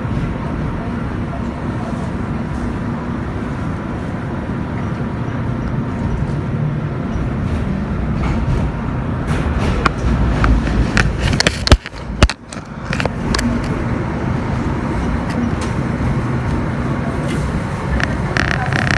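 Tram running along its track with a steady low rumble. About ten seconds in comes a run of sharp clicks and knocks, one of them loud, as the wheels ride over track joints or points.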